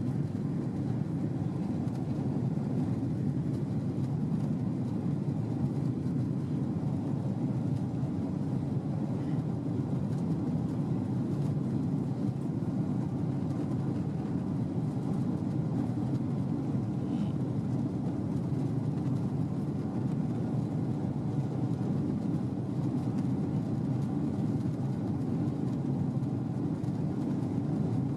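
Steady low rumble of cabin noise inside a Boeing 767-300 airliner, engine and airflow noise at an even level.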